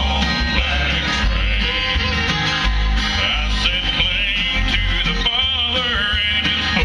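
Bluegrass band playing live, with acoustic guitar and other plucked strings over a steady low bass line.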